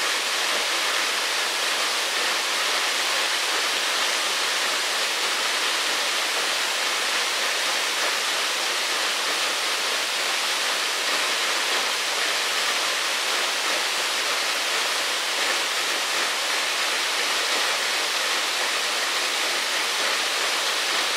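Waterfall: water falling and rushing with a steady, unbroken hiss.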